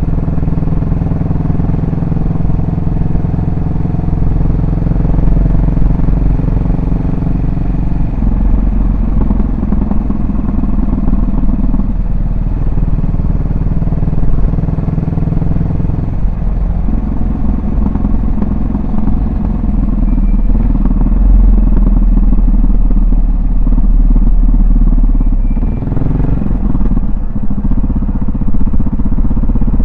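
Yamaha SR400's single-cylinder four-stroke engine and exhaust running continuously while riding, its note stepping to a new pitch several times as the throttle and gear change.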